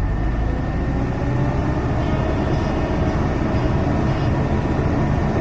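Heavy diesel engine running steadily with a low rumble. A faint high whine joins about two seconds in.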